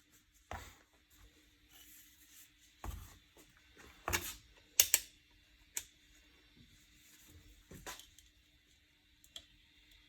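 Scattered clicks and knocks of hands handling vacuum cleaner parts, with a loud pair of sharp clicks about five seconds in. The vacuum's motor is not running.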